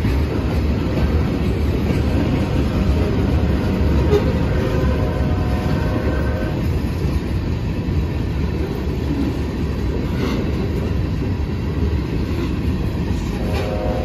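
Freight train of tank cars and refrigerated boxcars rolling past, with a steady rumble and clatter of steel wheels on the rails. Faint steady tones sound over it during the first half and again near the end.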